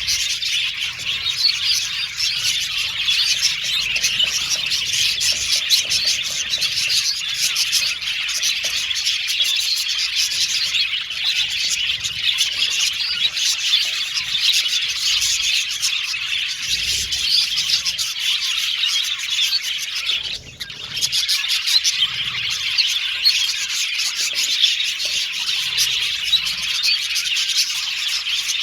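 A colony of budgerigars chattering and chirping continuously, many birds at once, briefly dropping away about two-thirds of the way through.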